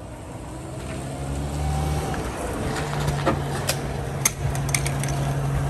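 A car engine running with a steady low hum that grows louder over the first couple of seconds as the car draws near, with a few sharp clicks about halfway through.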